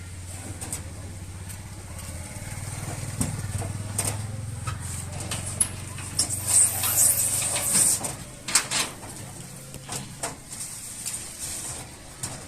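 A low engine hum runs steadily and fades out about nine seconds in. Scattered knocks and clatter run over it, loudest and busiest about six to eight seconds in.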